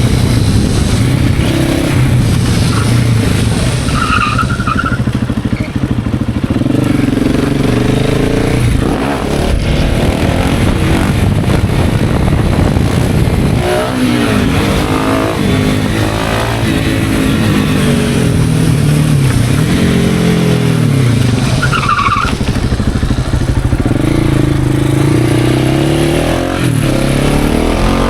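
KTM 690 SMC R's single-cylinder engine through a KTM PowerParts exhaust, accelerating and easing off again and again, its pitch rising and falling with each change of revs.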